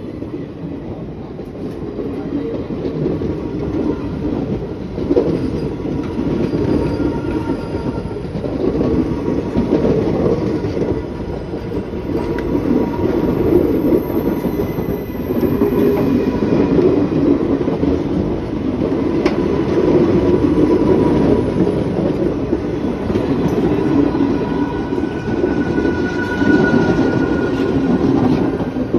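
Train running on railway track, growing louder over the first few seconds and then holding steady.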